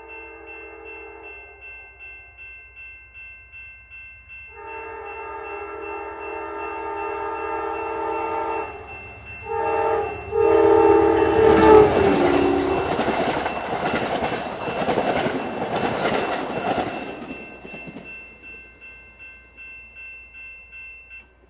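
Amtrak Adirondack passenger train sounding its chime horn in the long-long-short-long grade-crossing signal, the horn chord dropping in pitch as the train passes, then about six seconds of wheels clattering over the rails. A grade-crossing bell dings steadily about twice a second throughout.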